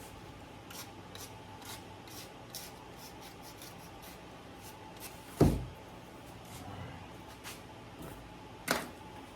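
Small wooden pieces being handled, rubbed and fitted into a wooden wing-rib frame: scattered light taps and scrapes, with two louder wooden knocks, the loudest about five and a half seconds in and another near the end.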